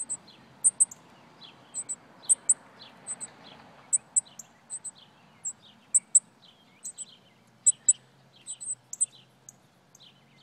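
Baby birds in a hedge cheeping: very high, short chirps repeated two or three times a second, often in pairs, with softer falling notes beneath them.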